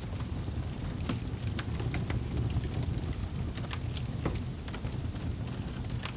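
Wood fire crackling: irregular sharp pops and snaps, several a second at times, over a steady low rumble of the burning fire.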